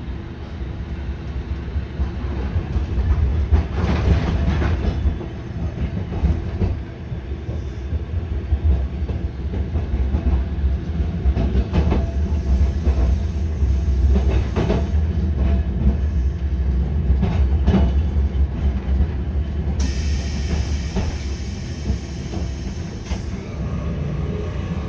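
A train running on rails: a steady low rumble with the clack of wheels over rail joints at irregular intervals. A hiss comes in for about three seconds near the end.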